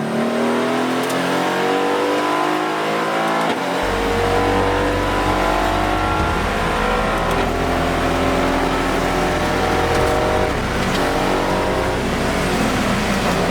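Aston Martin Vantage GT4 race car's V8 engine at full throttle, heard from inside the cabin: the pitch climbs and drops back again and again as it accelerates through the gears.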